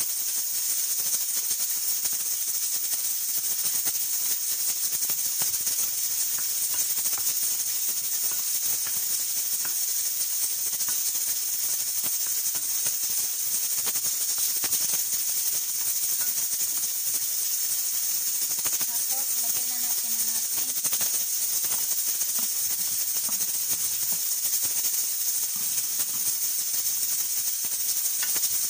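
Carrots and onions sizzling in oil in a nonstick frying pan with tomato paste, a steady high hiss.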